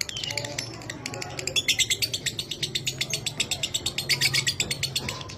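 Lovebird chattering in a long rapid trill of sharp, high chirps, about eight or nine notes a second, in bursts that come loudest around two seconds and four seconds in.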